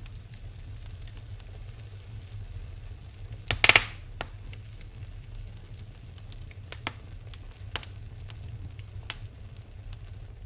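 Wood fire burning in a fireplace, crackling with scattered sharp pops over a steady low rumble; one much louder pop comes about three and a half seconds in.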